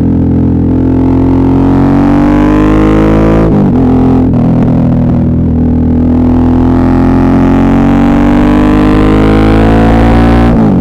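Suzuki V-Strom 650's V-twin engine pulling under acceleration, its pitch rising steadily, with an upshift about three and a half seconds in and another near the end, each dropping the revs before they climb again.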